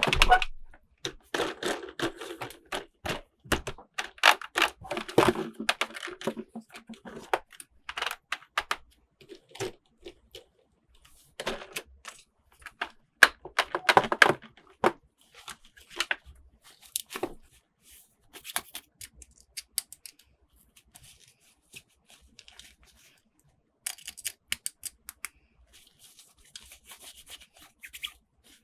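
Hands unboxing plastic toy packaging: irregular crinkling, tearing and sharp clicks and taps of plastic. It is busiest in the first half and thins out to scattered clicks and light rustling later.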